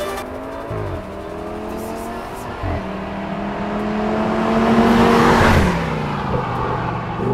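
Audi RS6 C6's twin-turbo V10 through an MG aftermarket exhaust, accelerating hard with quick gear changes about one and three seconds in. It grows louder to a peak about five seconds in, then the pitch falls away.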